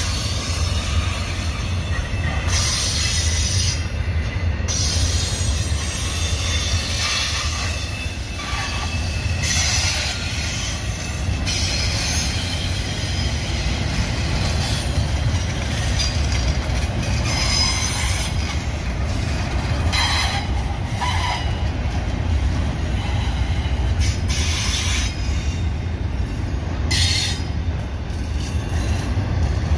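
Double-stack intermodal container train's well cars rolling past, a steady low rumble of steel wheels on rail. Short high-pitched wheel squeals come and go every few seconds.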